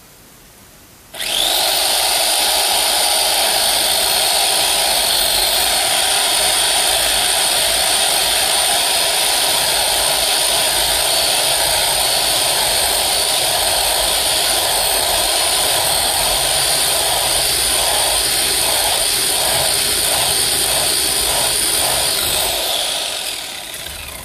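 Electric chainsaw switching on about a second in and running steadily at full speed with a high whine, cutting wood, then winding down and stopping near the end.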